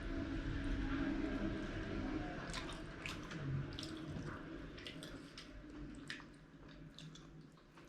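Wet eating sounds of dhido and fish gravy being chewed, with scattered short wet clicks and smacks, growing quieter toward the end.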